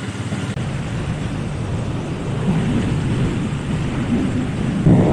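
An engine running steadily with a low rumble that swells louder near the end.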